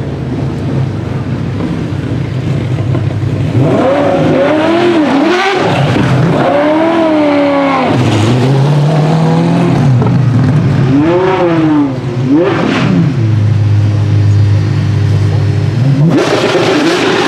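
Apollo Intensa Emozione's 6.3 L naturally-aspirated V12 idling, then revved several times, each rev rising and falling back. It holds a steady raised idle for a few seconds and gets louder again near the end.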